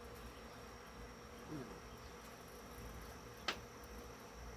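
Faint steady buzzing hum, with one sharp click about three and a half seconds in.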